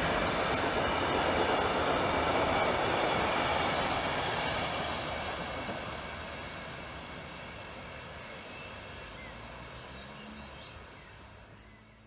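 Passenger train hauled by an ÖBB class 1216 electric locomotive rolling past, with a steady rush of wheel and coach noise. The noise is loud for the first few seconds, then fades away as the train recedes.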